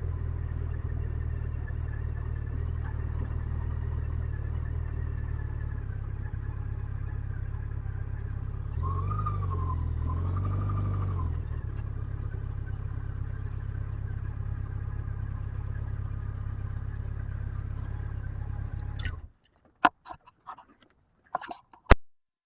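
Motorcycle engine idling steadily, with two quick blips of the throttle, one rising and falling pitch after another, about nine to eleven seconds in. The engine is switched off near the end and stops abruptly, followed by a few sharp clicks and knocks.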